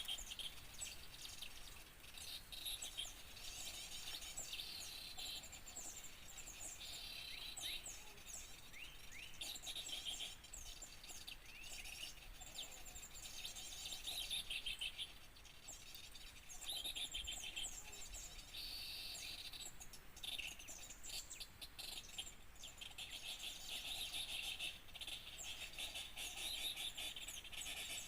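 Many small songbirds chirping and twittering at once, as in a bird-lure (pikat) recording. Rapid high calls come in busy bursts a few seconds long, one after another.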